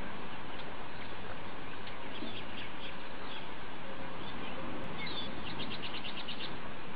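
Small birds chirping over a steady background hiss, with scattered short high calls. Near the end comes a quick series of about ten rapid high notes.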